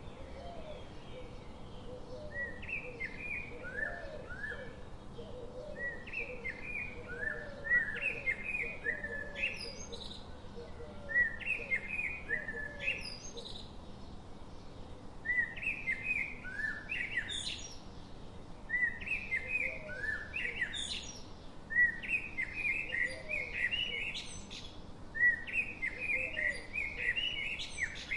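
Birdsong: a songbird repeats a short phrase of quick chirps, often ending in a sharp rising whistle, every three to four seconds. Softer, lower chirps run under it in the first half, over a faint steady hiss.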